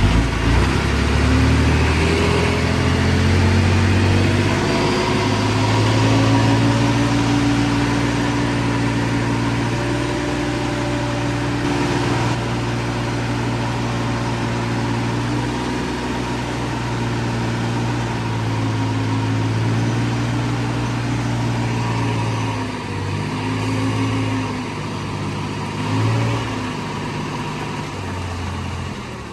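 Diesel engine of earthmoving machinery running under load, its pitch shifting as the throttle changes, with several drops and surges near the end.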